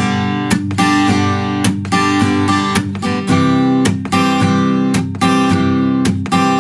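Taylor Builder's Edition 324ce acoustic guitar strummed in a steady two-bar pattern, alternating G and C major chords. The chord changes about halfway through.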